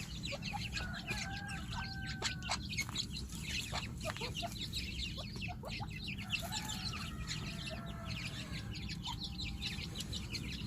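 Grey francolin chicks cheeping in many quick, short notes, with clucking and a few longer whistled calls from the birds, over a steady low hum.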